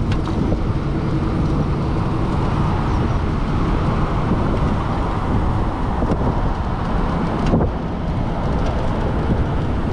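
Steady road and traffic noise heard while riding an Onyx RCR electric moped through city streets, with a brief thump about seven and a half seconds in.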